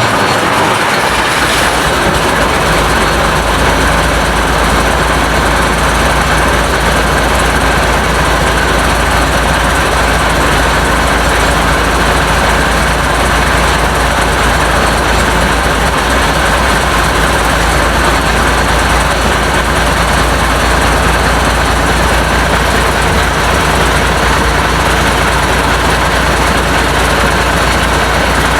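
International DT466 inline-six diesel engine running steadily with loud diesel clatter, on its first cold start after the rebuild.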